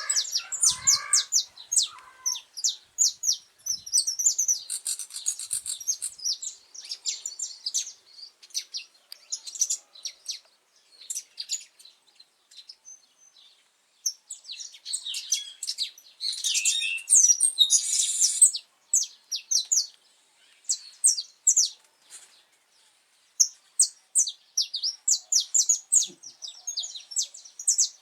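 Saffron finch singing: rapid strings of sharp, high chips and short trills in bouts, with pauses of about two seconds between some phrases.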